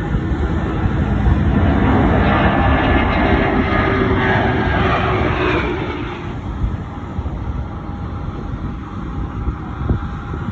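Jet airliner passing overhead: its engine noise swells to a peak a couple of seconds in, then fades after about six seconds, leaving a steady low rumble.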